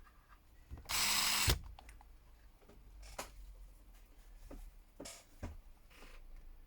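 A small power tool whirs briefly, under a second, about a second in, followed by a few light, sharp clicks.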